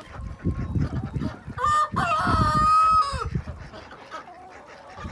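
A rooster crows once, a single long call starting about a second and a half in. The owner takes it as the rooster calling the flock out, letting them know it's safe.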